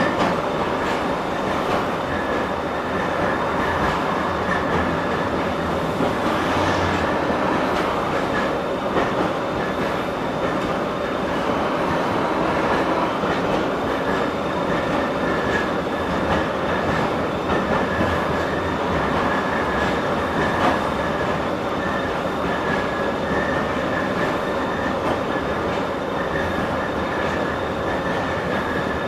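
LM-99AVN tram running along the track, its wheels knocking fairly softly over the rail joints, with a steady high whine underneath.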